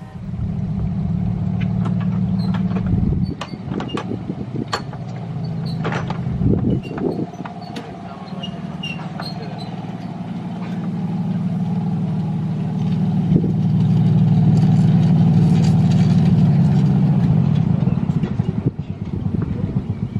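Miniature railway locomotive running, a steady low engine drone with scattered sharp clicks. The drone dips briefly about three seconds in and swells again in the second half.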